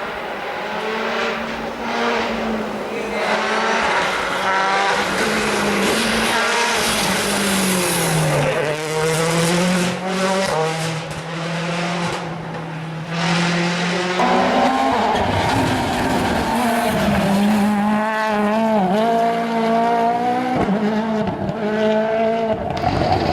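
World Rally Car's turbocharged 1.6-litre four-cylinder engine driven hard, its pitch rising and falling through gear changes, with an abrupt jump in pitch about fourteen seconds in.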